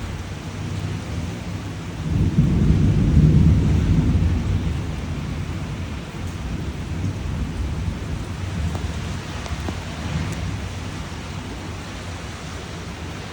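Steady rain falling, with a low rumble of thunder that swells about two seconds in and dies away over the next few seconds.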